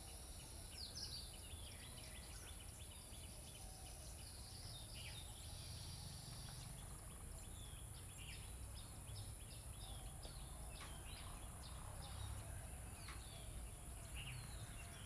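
Faint birdsong: many short chirps and quick whistles from several birds, over a steady high hiss and a low rumble.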